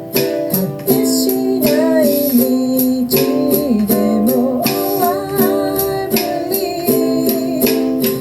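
Ukulele strummed in chords, accompanying a woman singing a slow melody.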